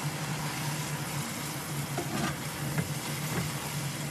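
Pork and onion in a hot pot sizzling as water is added, with a silicone spatula stirring and scraping through it a few times; a steady low hum sits under the sizzle.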